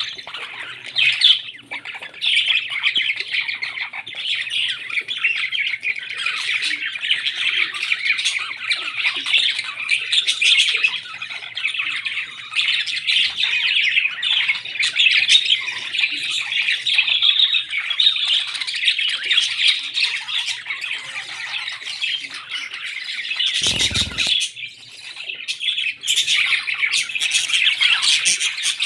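Pet parrots chattering and squawking nonstop in a dense stream of high calls, with one dull thump about three-quarters of the way through.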